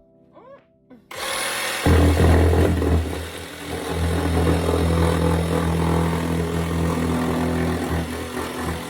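A power tool starts about a second in and runs steadily with a low motor drone.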